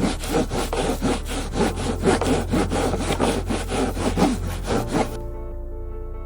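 Rapid back-and-forth scraping strokes, about five a second, that stop about five seconds in, over steady background music.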